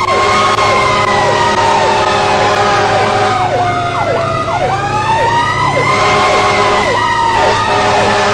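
Emergency vehicle sirens sounding together. One makes a slow wail that falls and rises again about halfway through, while another repeats a quick falling sweep about twice a second, over a steady low engine hum.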